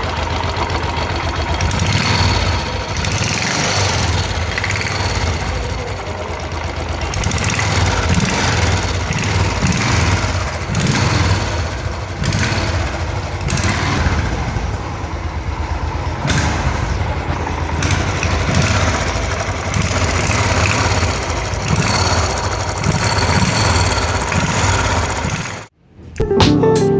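Motorcycle engine running steadily after a crankshaft replacement, with some tappet noise still present; the earlier heavy knocking from the worn crankshaft is no longer the main sound. It cuts off abruptly near the end.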